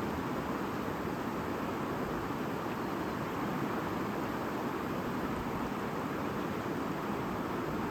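Stream running and babbling steadily, a continuous rush of water with no breaks.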